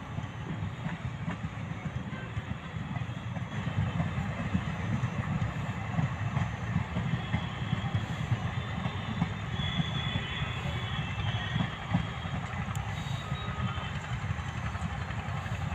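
Train running along the track: a steady low rumble of the moving locomotive and wagons, with a few faint high squeals about ten seconds in.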